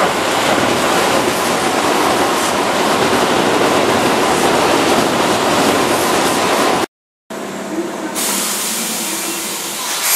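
Keihan 2600-series electric train running past on curving track, a steady rumble of wheels on rail. About seven seconds in it cuts off abruptly to a moment of silence, followed by quieter sound with a few steady tones.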